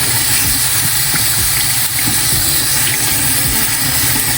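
Kitchen tap running steadily, water pouring over red lentils in a strainer as they are rinsed.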